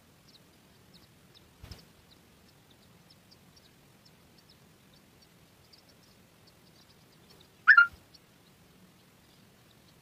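A single short, loud bird call with two quick peaks about three-quarters of the way through, over faint high chirps repeating several times a second. A soft thump about two seconds in.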